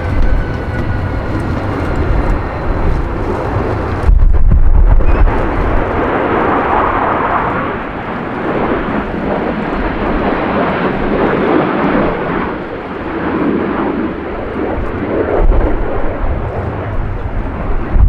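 Panavia Tornado jet engines running in a continuous, rushing roar with a pulsing rumble. The sound suddenly gets louder, with a heavy low rumble, about four seconds in.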